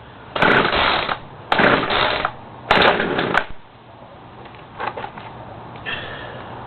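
Poulan two-stroke chainsaw being pull-started, three quick pulls on the recoil starter cord about a second apart, with the choke set on a cold engine after priming; it then goes quieter.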